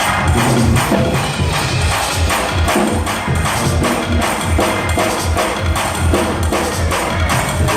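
Fast gospel praise-break music: drums and tambourine keep a quick, driving beat of about four strokes a second over a pulsing bass.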